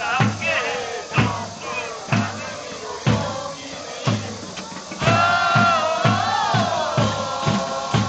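Football supporters singing a chant together to a bass drum, the drum struck about once a second. About five seconds in, the drum quickens to about two beats a second and the singing gets louder.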